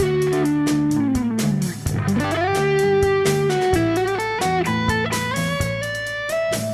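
Instrumental break of a rock song: an electric guitar plays held, bending notes over bass guitar and a steady drum beat, with no vocals. One note slides down about a second in and another slides up about two seconds in.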